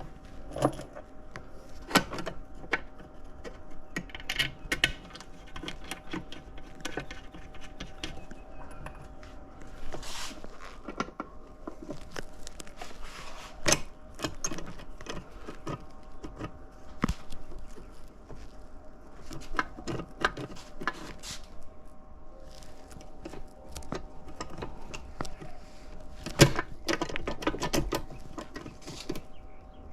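Small metal transmission parts and hand tools clinking, clicking and knocking irregularly as the reverse lever and its bolts are fitted to a transmission case, with a few louder knocks, over a faint steady hum.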